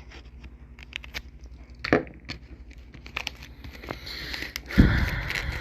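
A plastic DVD case and its wrapping being handled and opened: scattered clicks and taps, two louder knocks about two seconds in, then a crinkling rustle from about four seconds with a heavy thump near the end.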